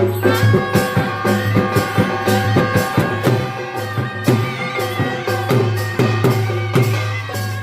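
Instrumental break in an Odia Danda folk devotional song: fast, uneven drum strokes with held melodic instrument notes over a steady low hum, no singing.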